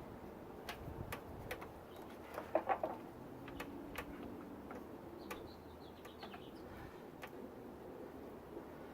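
Scattered light clicks and taps of hand work on the engine while the timing belt is fitted. A bird calls briefly about two and a half seconds in, and again faintly about five seconds in.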